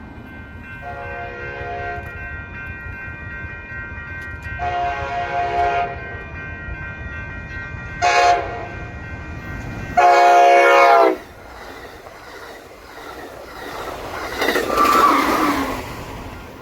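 A train's multi-chime air horn sounding the grade-crossing signal: two long blasts, a short one and a final long one, each louder than the last as the train approaches. A burst of rushing noise follows near the end.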